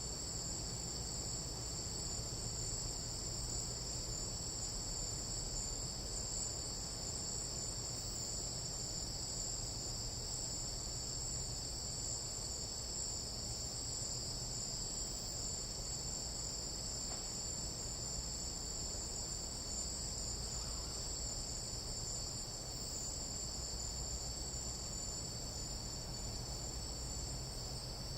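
Chorus of tropical jungle night insects: a steady, unbroken high-pitched trill in two close pitch bands, holding constant throughout.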